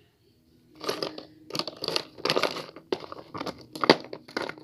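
Irregular crinkling and crunching handling noises with sharp clicks, starting about three-quarters of a second in, as plastic toy animal figurines are picked up and handled.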